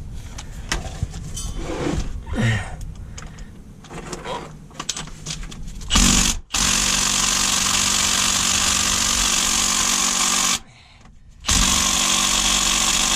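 Impact gun running on a truck's bell housing bolts in two long runs with a brief stop of about a second between them. Before it, light metallic clinks of tools and sockets being handled.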